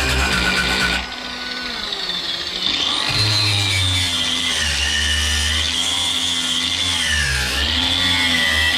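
A handheld power tool running, its motor pitch dipping and recovering several times as it is loaded. Background music with a steady bass line plays underneath.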